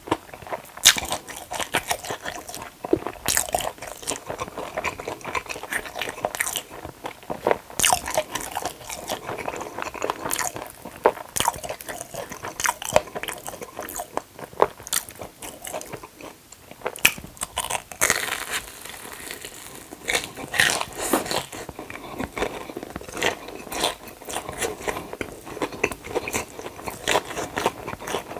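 Close-miked biting and chewing of a crunchy batter-fried hot dog, with many sharp, irregular crunches.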